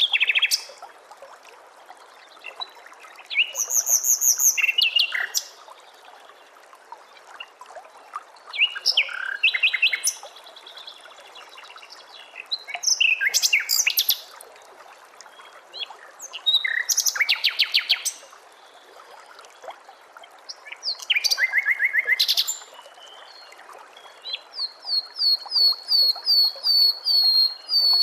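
Songbird singing in loud phrases of quick, high whistled and chattering notes, one phrase about every four seconds, with a rapid run of repeated rising notes near the end. A steady soft hiss runs underneath.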